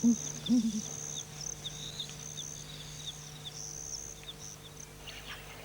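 Ground hornbills giving two low calls in the first second or so, over a steady high chirping of night insects that carries on after the calls stop.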